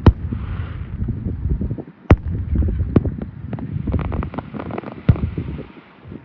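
Fireworks going off: a sharp bang right at the start, more single bangs about two, three and five seconds in, and a spell of rapid crackling around four seconds in, over a steady low rumble.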